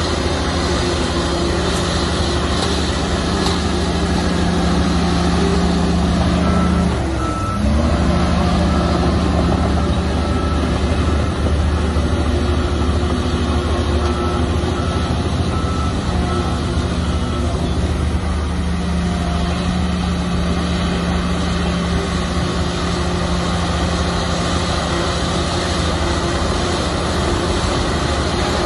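Large Shantui crawler bulldozer's diesel engine running steadily under load. The engine note drops briefly about seven seconds in, then picks up again. A reverse alarm beeps in two spells as the dozer backs up.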